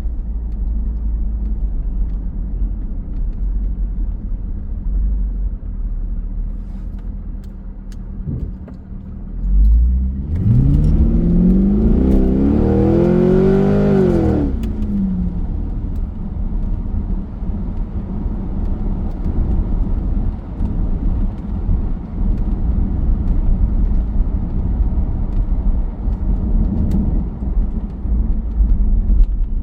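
A 2002 C5 Corvette's V8 and exhaust heard from inside the cabin, with the electric exhaust cutout valves open. It cruises with a steady low drone, then about ten seconds in it accelerates hard, the engine note rising for about four seconds before dropping back to a steady cruise.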